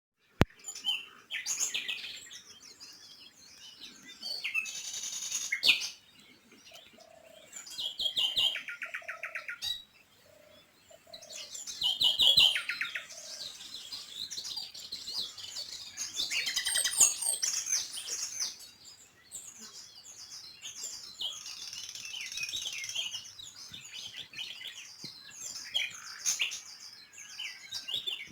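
Small songbirds chirping and singing, in short high calls and quick runs of repeated notes, with a rapid trill about eight seconds in.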